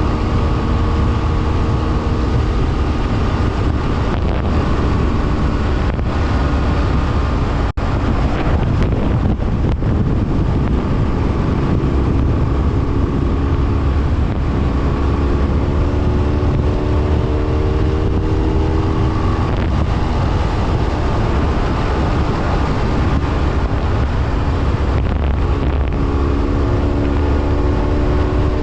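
BMW F800R parallel-twin engine running on the move, its pitch rising as the bike accelerates about halfway through and again near the end, under heavy wind noise on the camera's microphone.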